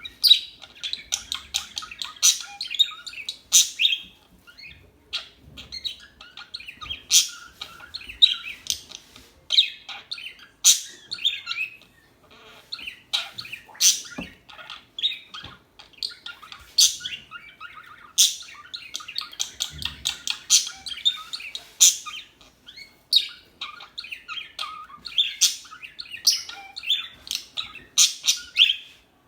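Pet budgerigars chirping in a dense, continuous chatter, with sharp high chirps throughout and a few short lulls.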